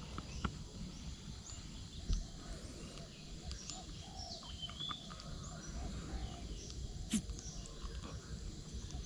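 Birds chirping and calling over a faint steady outdoor background noise, with a few short clicks.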